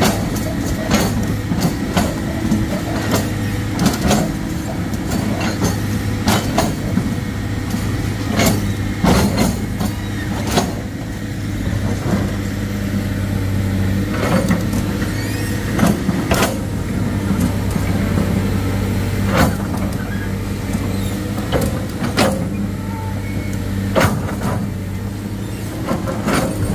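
Heavy diesel engine running steadily, with frequent irregular knocks and clanks over it.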